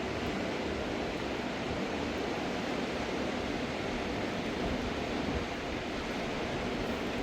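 Fast mountain river water rushing, a steady even sound with no breaks.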